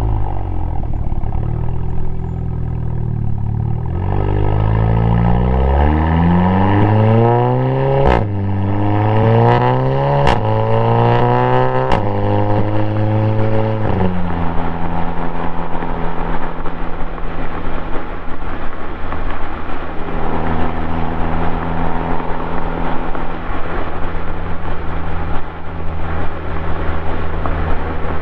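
Audi S3's turbocharged 2.0-litre four-cylinder through a 3-inch single-exit catback exhaust with a single resonator. The revs fall briefly, then climb hard through the gears, with a sharp crack at each of three quick upshifts. From about halfway through the engine holds steady revs.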